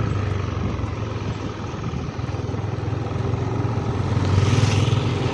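Motorcycle engine running steadily while riding, with a low hum and road noise. A louder rushing hiss swells about four seconds in.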